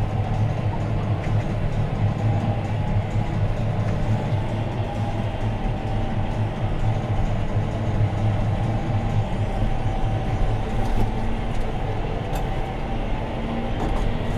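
John Deere 6215R tractor's six-cylinder diesel engine running steadily under load while pulling a plough, heard inside the cab, with a strong low hum.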